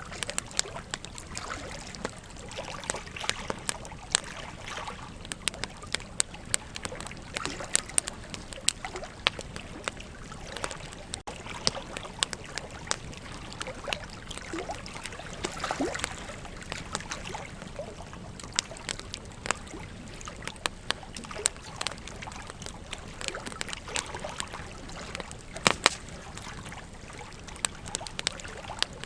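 Campfire wood burning with frequent irregular crackles and sharp pops, over the steady rush of a river. A couple of the loudest pops come near the end.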